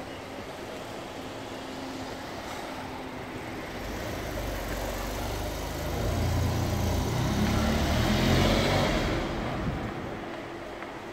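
Car engine and road noise swelling to a peak about eight seconds in, then fading.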